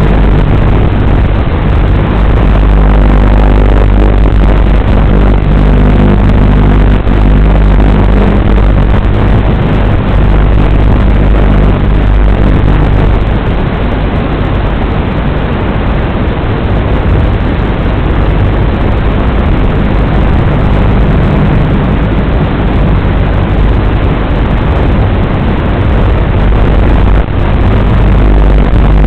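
WLToys 12418 electric RC car running, a loud steady rumble and rattle of motor and drivetrain that eases off a little through the middle.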